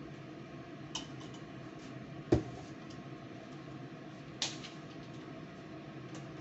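Steady background hum with a few sharp knocks and clicks, the loudest a dull knock a little over two seconds in and a sharper click a little after four seconds.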